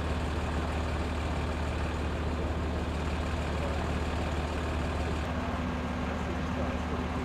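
Heavy vehicle's diesel engine idling close by: a steady low hum under a constant hiss.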